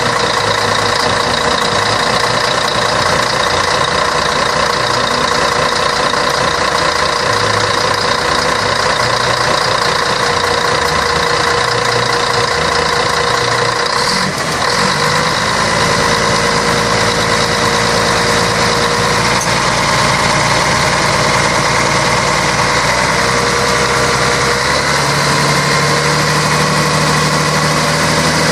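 Scania K113 bus's 11-litre six-cylinder diesel engine running steadily, with a brief dip and a click about halfway through.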